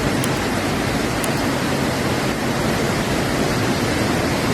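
Steady, loud rushing of storm water from torrential rain and flash flooding.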